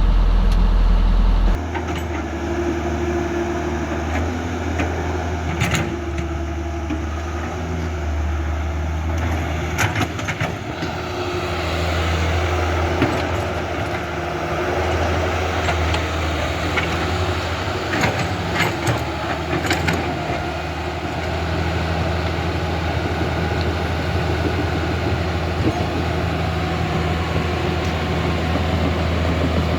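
Huina 1550 radio-controlled excavator working as it digs and loads soil: a steady mechanical hum from its motors, with a few sharp clicks and scrapes about six and ten seconds in and again around eighteen to twenty seconds.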